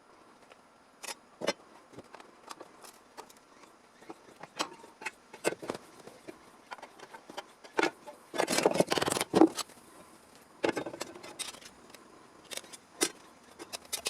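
Scattered metallic clinks and taps of hand tools and sheet-steel pieces being handled, with a rasping scrape lasting about a second just past the middle.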